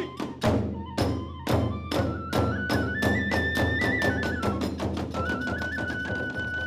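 Kagura hayashi: drums and hand cymbals striking a steady beat that quickens about two seconds in, under a bamboo flute (fue) playing a high melody that climbs to a higher pitch at the same point.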